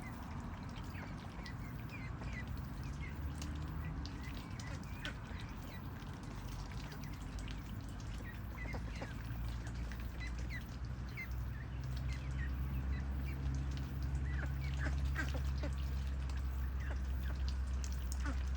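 Domestic ducks calling, many short high calls scattered throughout, over a low steady rumble that grows louder about halfway through.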